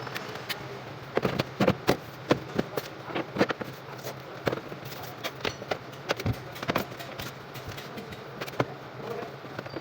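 Irregular sharp clicks and knocks, like hand tools and metal parts clinking during brake master cylinder work on a truck, over a steady low hum.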